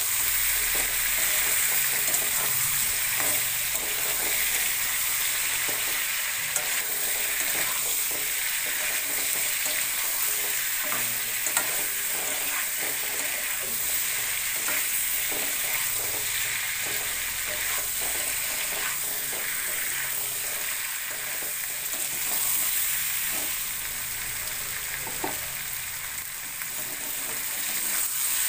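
Boiled potatoes frying in oil in a kadhai, a steady sizzle, while a metal spatula stirs them, scraping and clicking against the pan again and again.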